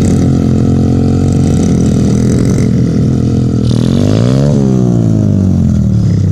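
Dirt bike engine running steadily, then revving up and dropping back about four seconds in.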